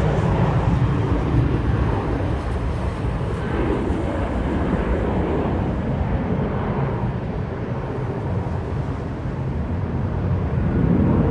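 Steady jet engine rumble of an Airbus A320 airliner, easing slightly after the middle and swelling again near the end.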